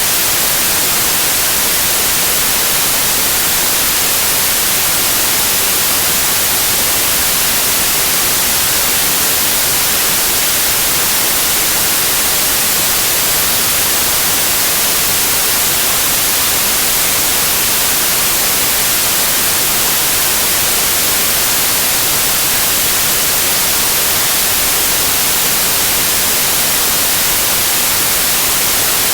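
Steady white noise like television static, an even hiss that does not change.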